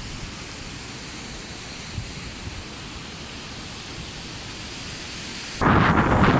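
Steady rushing of the Lechfall, water pouring down stepped weirs on the Lech river. Near the end a gust of wind suddenly hits the microphone, much louder and buffeting.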